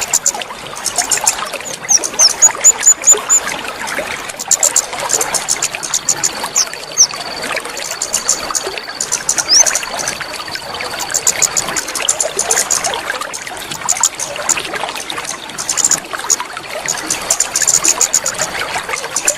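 Water trickling and splashing steadily, with birds chirping in quick high-pitched runs throughout and a few thin, level whistles in the middle.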